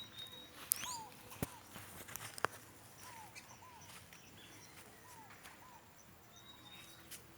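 Birds singing: a short arched whistle repeated every second or so, often in pairs, with higher chirps near the start. Two or three sharp clicks in the first few seconds.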